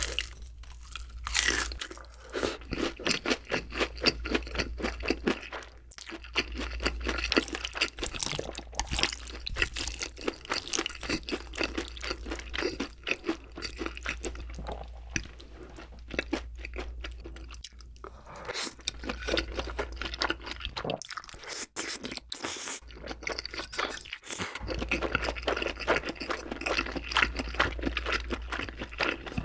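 Close-miked crunching and chewing as a breaded, deep-fried pork cutlet is bitten and eaten, with crisp crackles coming thick and fast and a short quieter lull past the middle. A faint steady low hum runs underneath.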